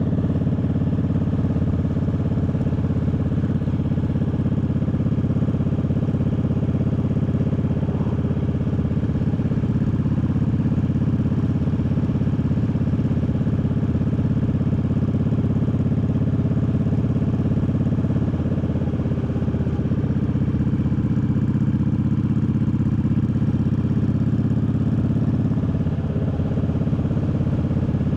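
Triumph Bobber's parallel-twin engine running steadily at an even, unchanging pitch.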